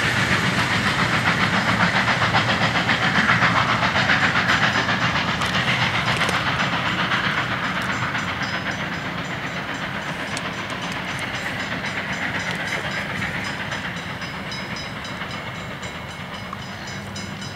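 Steam-hauled heritage passenger train rolling past and pulling away, its carriage wheels giving a steady rumble and fast rhythmic clatter on the rails with a hiss over it. The sound fades steadily as the train recedes.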